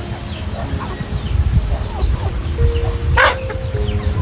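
Animal calls over background music with held notes: short falling chirps throughout and one loud call about three seconds in.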